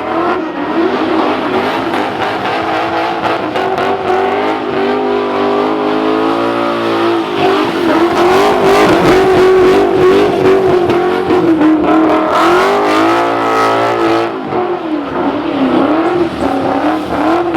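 Car engine held at high revs through a burnout, its pitch wavering up and down, with a steady hiss over it. The revs climb twice in the middle and drop back about fourteen seconds in.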